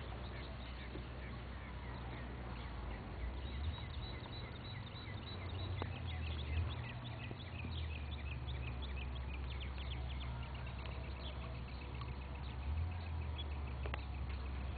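Outdoor bird chirping: quick series of short high calls over a low steady rumble, with an occasional faint click.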